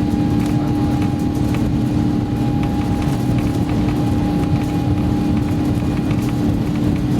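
Cabin noise of an Airbus A350-900 at takeoff power: a loud, steady low rumble from the Rolls-Royce Trent XWB engines and airflow, with two steady humming tones running through it.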